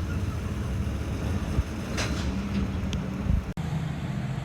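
An engine running steadily with a low hum, broken by a short gap near the end.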